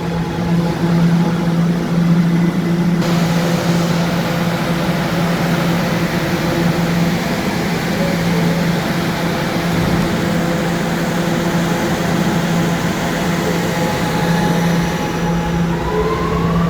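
New York City subway train standing at the platform with a steady hum from its onboard equipment, then its traction motors start a rising whine near the end as it begins to pull out.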